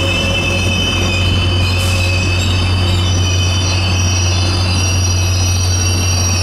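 Caltrain passenger train rolling slowly past, its wheels squealing in several steady high tones over the steady low drone of its diesel locomotive.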